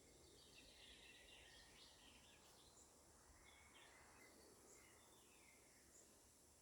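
Faint birdsong: small birds chirping and twittering, mostly in the first four or five seconds, over a quiet steady outdoor background.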